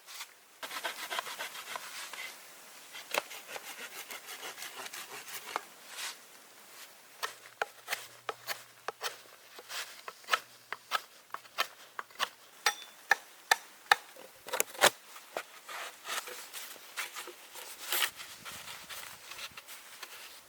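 Wood being worked by hand: a stretch of quick rasping strokes, then a run of sharp, irregular clicks and cracks, then rasping again near the end.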